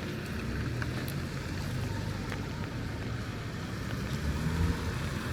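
Steady low rumble of street traffic with wind buffeting the microphone.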